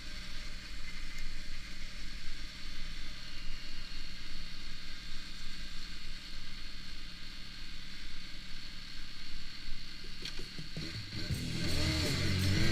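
Honda CBR600RR sport motorcycle running at a steady speed, engine drone under wind and road hiss. Music comes in about eleven seconds in.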